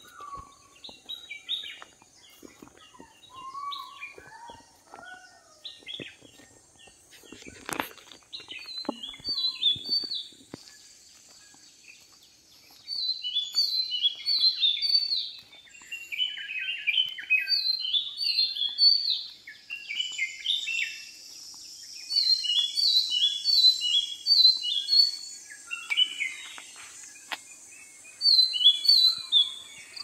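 Several wild birds chirping and calling, with repeated clusters of quick, high, falling notes that grow louder about halfway through, over a steady faint high hiss.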